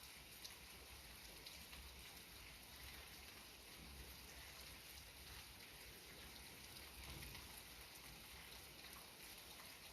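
Light rain falling: a faint, steady hiss with scattered soft drop ticks.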